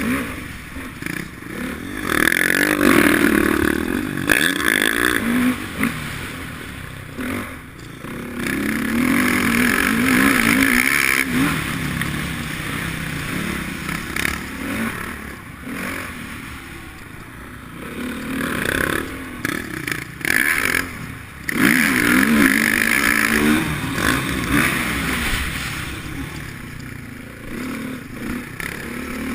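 Motocross dirt bike engine revving up and easing off again and again as it is ridden around a track, rising and falling in pitch in several loud surges with quieter dips between.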